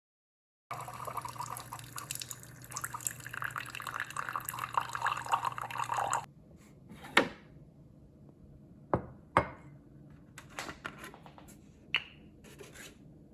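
Water running and splashing, with a low steady hum underneath, starting abruptly and cutting off after about five seconds; afterwards a few separate drips or knocks.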